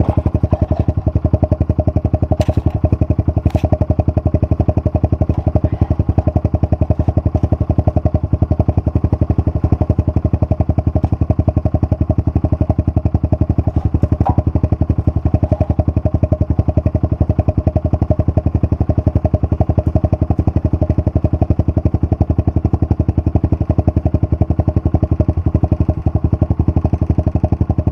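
Honda CRF125F's single-cylinder four-stroke engine running at a steady speed, its exhaust pulsing evenly with no revving.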